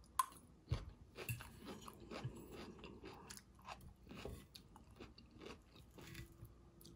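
Close-up chewing of sautéed zucchini, yellow squash and red onion, with soft crunches and a few sharp clicks of the metal fork, one shortly after the start.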